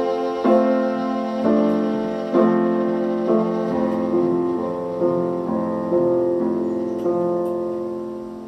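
Piano playing slow chords about once a second, then a final chord held and dying away as the piece ends.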